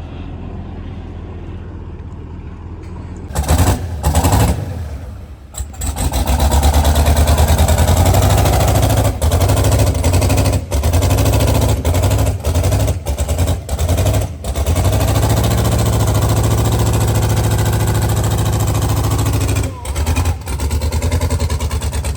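Twin-turbo LS-swapped V8 in a limousine running: a steady low drone at first, then revved in short loud blips about three and a half seconds in, then running loud and sustained under load, with brief dips, until near the end.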